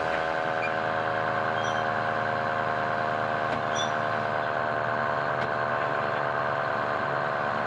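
Fire truck engine running steadily.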